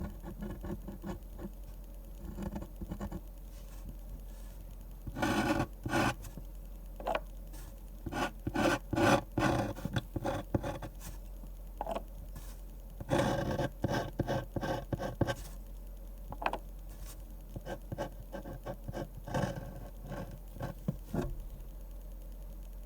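Drawing strokes on paper while a manga is drawn: short scratching and rubbing strokes in quick runs, busiest in three stretches through the middle, with lighter scattered strokes before and after.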